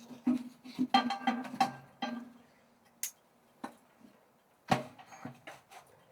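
A run of light clicks and knocks, as of objects being handled, with a low ringing tone under the first two seconds; after that, single sharp clicks spaced apart, the loudest near the end.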